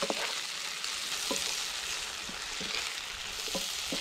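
Diced lamb, onion, chillies and mushrooms sizzling in oil in a non-stick frying pan, with a wooden spoon stirring through them and knocking lightly against the pan several times.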